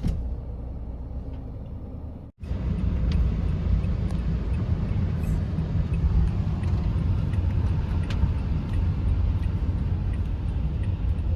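Low, steady rumble of a car's engine and tyres, heard from inside the car. About two seconds in it cuts off abruptly and returns louder.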